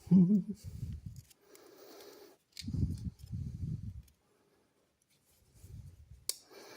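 A thin tool prying at the metal liner of an old folding pocket knife: sharp metal clicks, the clearest about two and a half seconds in and near the end, over low rumbling handling noise in three bursts. The liner is stuck and is not coming free.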